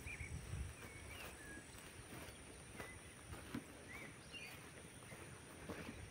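Faint, scattered bird chirps, short high notes every second or so, over quiet rural ambience with a few soft clicks.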